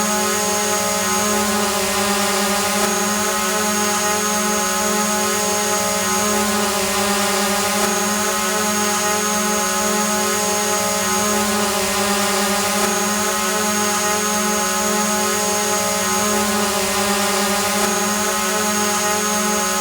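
Drone hovering: a steady propeller hum and whine, with a hiss above it and no change in pitch.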